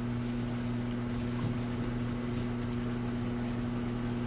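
Electrolux Essential Care LES11 washing machine running with a steady, even low hum and no knocking, its foot just levelled.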